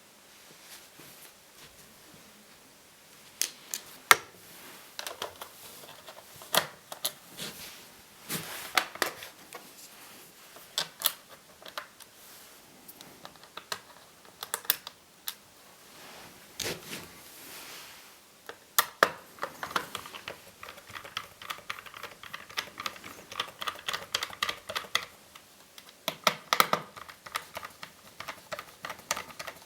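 Laptop keyboard being typed on. First scattered single key clicks, then about two-thirds of the way in, fast continuous typing.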